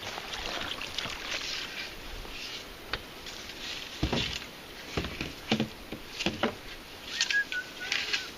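Kayak paddling and handling: water splashing, then a run of sharp knocks from paddles and hulls starting about three seconds in.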